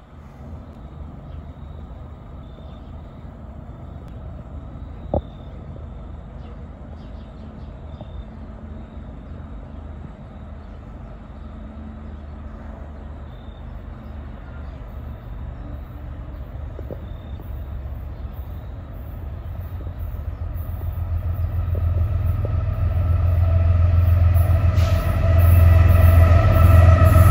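BNSF diesel locomotive leading a coal train approaching at speed: a low engine rumble that grows steadily louder, with wheel and rail noise building in the last few seconds as the train nears. A single sharp click about five seconds in.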